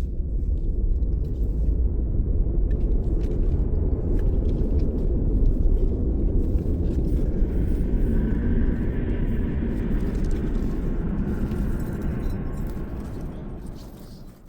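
Strong blizzard wind buffeting the microphone as a heavy low rumble, easing off over the last couple of seconds.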